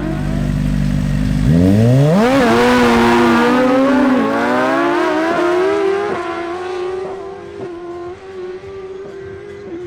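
Suzuki GSX-R1000 inline-four sportbikes launching down a drag strip. The engines hold steady revs, then about a second and a half in rise sharply in pitch, drop as they shift up twice, and fade as the bikes pull away.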